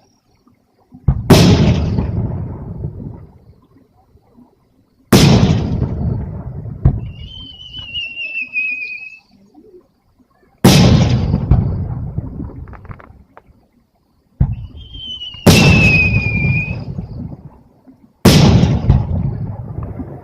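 Aerial firework shells bursting: five loud booms, each rumbling away over a couple of seconds. Twice, a whistle of a climbing shell sounds, falling slightly in pitch, before a burst.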